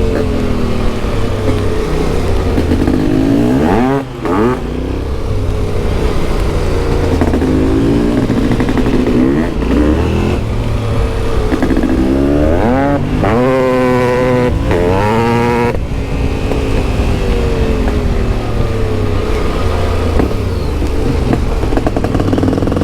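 Yamaha Ténéré 700's CP2 parallel-twin engine through an Akrapovic exhaust, riding under load with the revs climbing and falling through gear changes. A brief dip in the engine note comes about four seconds in, and a run of quick revving climbs comes about two thirds of the way through.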